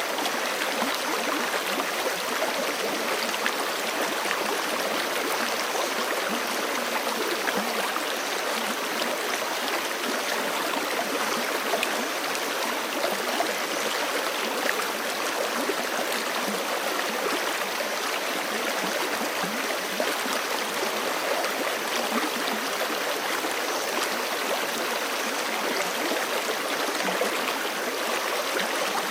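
Forest creek flowing over rocks, a steady rushing and gurgling of water.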